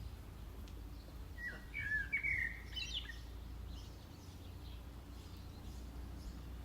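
A songbird gives one short warbling phrase of gliding, chirping notes about a second and a half in, over a steady low rumble.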